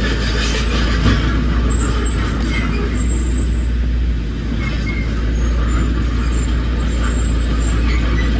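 Heavy diesel earthmoving machinery running steadily, a loud, deep engine drone that eases briefly about four seconds in.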